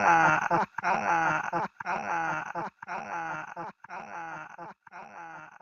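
A short pitched vocal sound from a DJ drop repeating through an echo effect about once a second, each repeat quieter, fading away.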